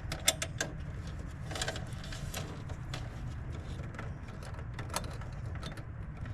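Scattered light clicks and taps of hands and tools working on wiring in a heat pump's control panel, over a steady low hum.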